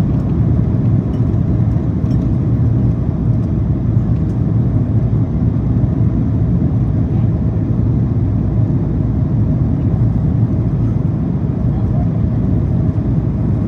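Steady cabin noise of a Boeing 767-400ER airliner descending on approach: an even, deep roar of engines and airflow, with a faint steady tone above it.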